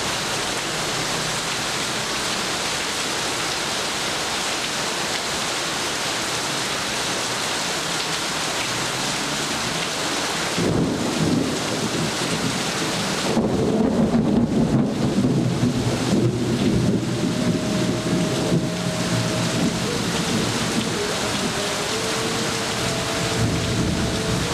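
Steady rain pouring down. About ten seconds in, a long roll of thunder breaks in low and deep, swells again a few seconds later, and keeps rumbling under the rain.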